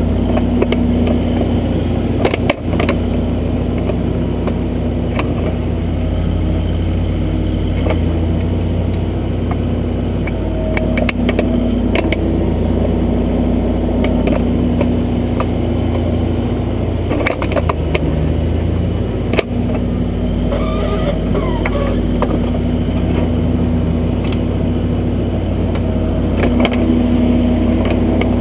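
Kubota backhoe's diesel engine running steadily while digging, with a few sharp knocks scattered through.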